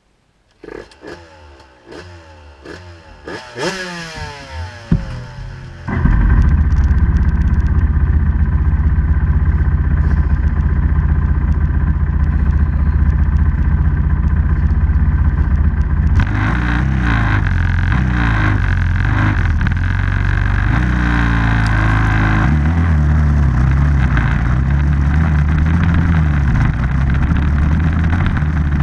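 Small off-road vehicle engine coming to life, with a run of rising revs over the first few seconds. About six seconds in it jumps to running loud and steady, and its pitch rises and falls later on.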